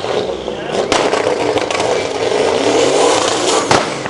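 Car engine revving hard under acceleration, its pitch climbing, over a heavy rush of noise. Sharp knocks come about a second in and near the end.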